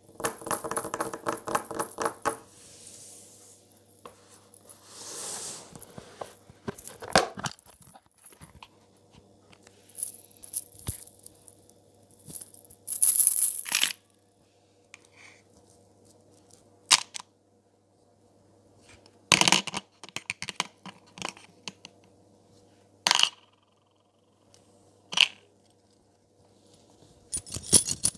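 Jewellery rings clinking and jingling against one another: a dense rattle in the first couple of seconds, then scattered sharp clinks and short jingles.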